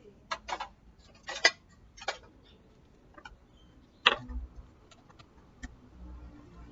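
Irregular sharp clicks and taps of small tools and parts being handled while a thermal fuse is replaced in an electric fan. The loudest click comes about one and a half seconds in, another about four seconds in, with lighter ticks between.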